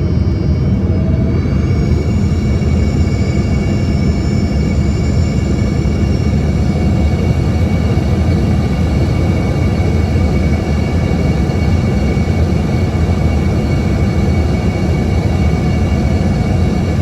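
Cabin noise of an Embraer ERJ-145 in flight: a steady low rumble with the whine of its rear-mounted Rolls-Royce AE 3007 turbofans. The engine whine rises slightly in pitch about two seconds in, then holds steady.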